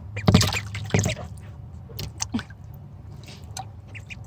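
Ducklings splashing and paddling in bath water: two loud splashes in the first second, then small drips and light splashing.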